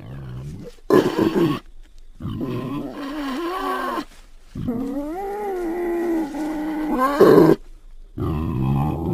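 Wild boar calling: a series of about five drawn-out calls with a wavering, gliding pitch, separated by short pauses.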